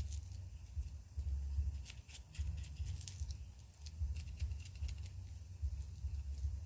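A knife working over a freshly caught jeju fish, scraping and cleaning it: scattered small clicks and scrapes. Under it run a steady low rumble and a thin, steady high whine.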